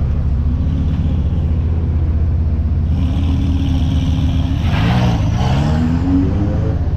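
Car engines running at a car meet, a steady low rumble, with one engine revving up in pitch about five seconds in, and a louder hiss in the middle of the clip.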